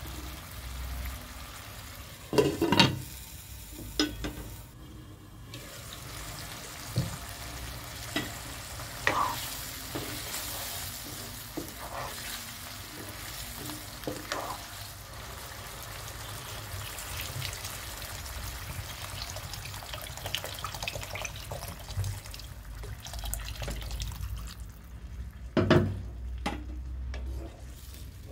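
Potato chunks frying and sizzling in a spice paste in a non-stick wok, stirred with a metal spatula that knocks and scrapes against the pan now and then. Near the end water goes in and the sizzle dies down to a wet bubbling.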